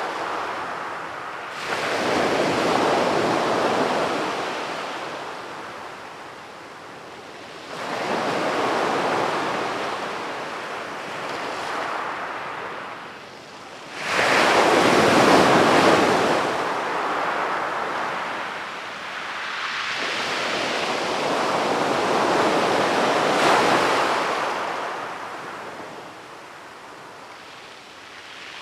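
Ocean waves breaking on a sandy beach and washing up the shore: four surges of surf about six seconds apart, each swelling and then fading into a quieter lull. The loudest wave breaks suddenly about fourteen seconds in.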